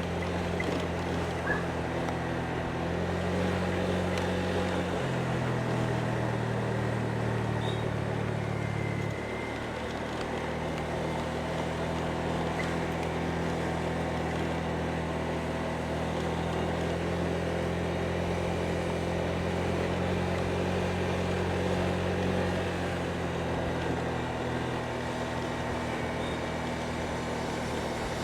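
Motorbike engine running at a fairly steady pitch while riding, over a constant haze of wind and road noise; the engine note steps up or down a few times and then holds.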